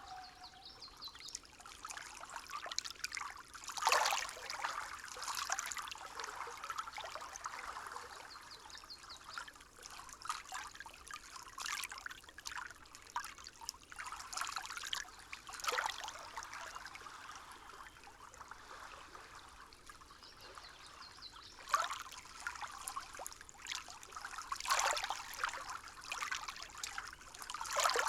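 Water trickling and babbling, with a few brief louder gurgling surges.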